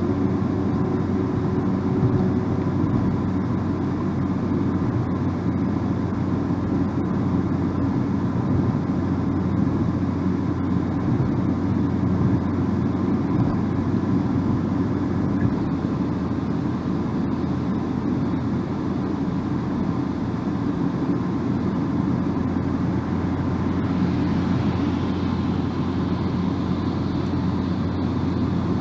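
Steady road and tyre noise with a low engine hum from a car driving at an even speed, heard inside the cabin.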